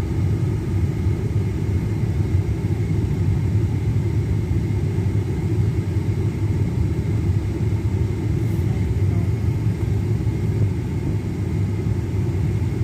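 Steady low rumble of a car's engine and tyres, heard from inside the moving vehicle.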